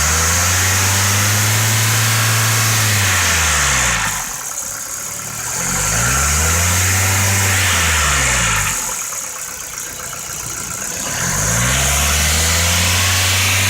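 Ford Focus 2's 1.6-litre petrol four-cylinder engine revved three times, each time held up for a few seconds and then let drop back to idle. The engine has a knock that the uploader puts down most likely to worn piston pins, a sign that an overhaul is due.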